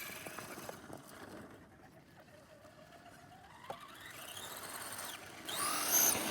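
Brushed electric motor of a Traxxas Slash RC short-course truck whining. It dies down, then rises in pitch as the throttle is opened again, and is loudest near the end.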